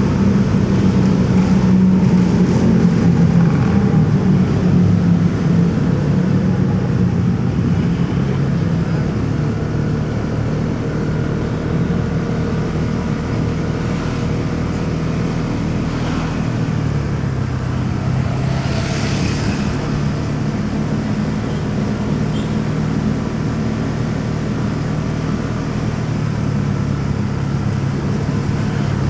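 Motorcycle engine running under way in city traffic, with road and traffic noise around it. The engine note drops about a third of the way through as the bike slows, then holds steady. A brief hiss comes about two-thirds of the way in.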